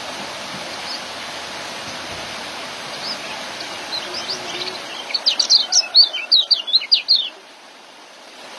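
Young white-eye (kecial) in a chattering 'ngeriwik' burst: scattered high chirps, then a fast run of loud chirps from about five seconds in that stops abruptly after two seconds, over a steady hiss.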